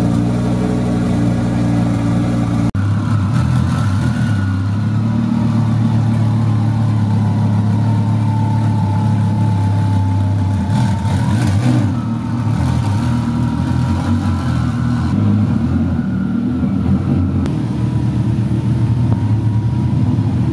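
Twin-turbo V10 engine of a first-generation Audi R8 running at a steady idle.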